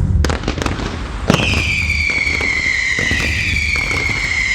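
Fireworks display: a few sharp pops, then a louder crack about a second in that sets off a long whistle slowly falling in pitch. Further whistles overlap it over a low rumble of bursts.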